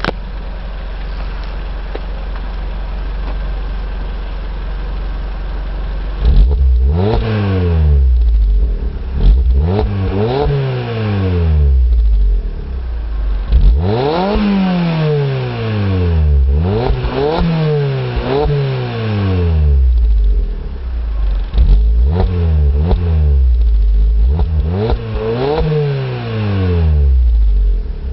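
Alfa Romeo MiTo 1.4 16V four-cylinder petrol engine breathing through a Grande Punto Abarth exhaust system from the catalytic converter back, with stainless tailpipes: it idles steadily for about six seconds, then is revved in a string of quick blips, each rising and falling back to idle, about nine in all.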